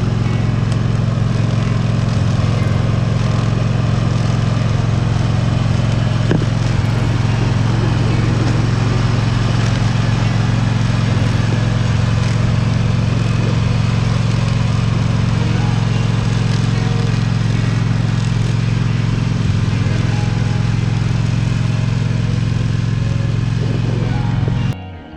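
An engine running steadily at a constant speed, a loud even drone, which cuts off abruptly near the end as acoustic guitar music begins.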